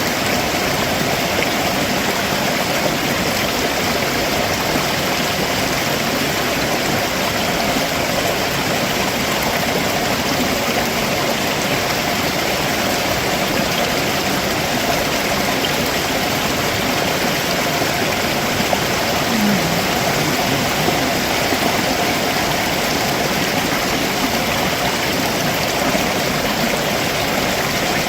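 A rocky stream running steadily below a waterfall: an even, continuous rush of water flowing over rocks.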